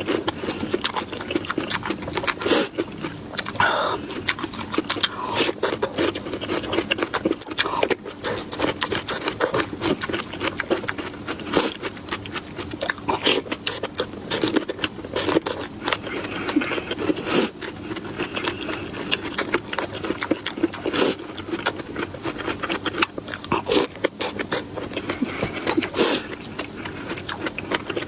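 A person chewing food close to the microphone, with many sharp, irregular crunches.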